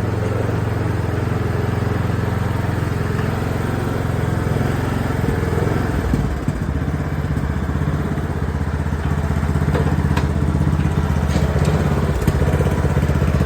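Riding lawnmower engine running steadily. Its note shifts with a brief dip about six seconds in and runs a little louder from about nine seconds on.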